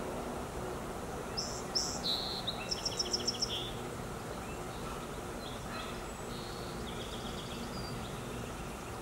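Bird chirps and a quick high trill of about eight notes a second, about two to three seconds in, with a fainter trill a few seconds later, over a steady low background noise.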